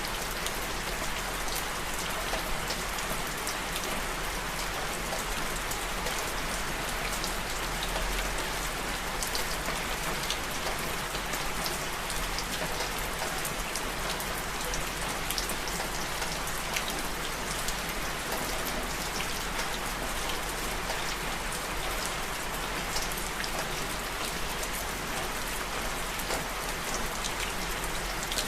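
Steady rain falling, with many individual drops ticking and pattering on a surface over an even hiss.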